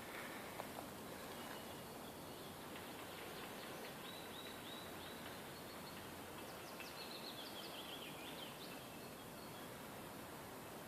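Quiet forest ambience: a steady faint hiss, with a small bird singing a few short high notes about four seconds in and a quick run of falling notes around seven to eight seconds in.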